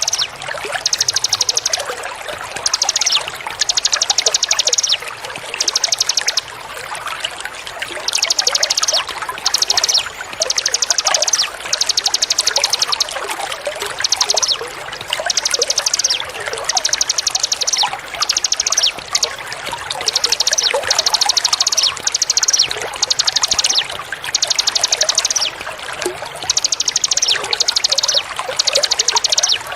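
Recorded songbird giving a rapid, buzzy pulsed trill in about twenty short bursts with brief gaps, over a steady bed of trickling, pouring water.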